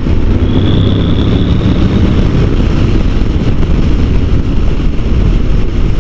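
Honda NC750 DCT motorcycle on the move: steady engine hum under heavy wind and road rush on the rider's microphone.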